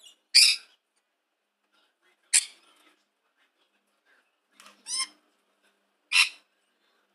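Four short, harsh bird calls about two seconds apart, the third a quick double call.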